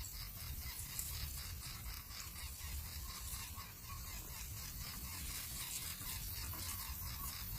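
Nestling birds calling, short high-pitched calls over a steady low rumble.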